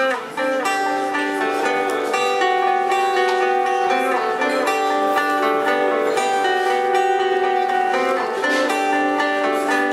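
A live band starts a song abruptly with an instrumental introduction: plucked strings over held notes, before any singing comes in.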